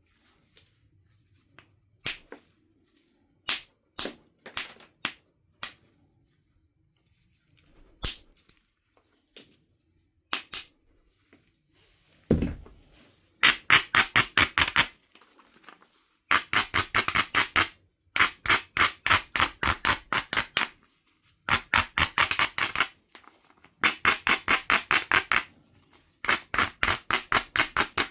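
Flint biface being knapped. Scattered sharp stone clicks and taps, then one heavier strike about twelve seconds in. After that come repeated runs of fast scraping strokes along the edge, about ten a second, each run lasting a second or so.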